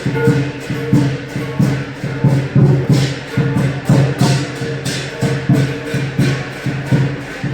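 Lion dance percussion: a large Chinese drum beating a quick, steady rhythm of about three to four strokes a second, with cymbals clashing on the beats.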